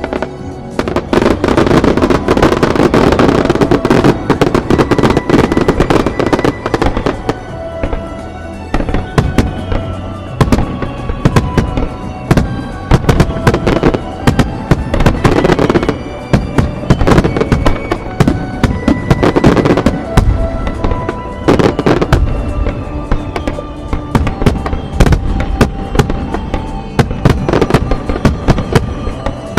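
Aerial firework shells bursting in a dense, continuous barrage, many bangs and crackles close together, with music playing under them.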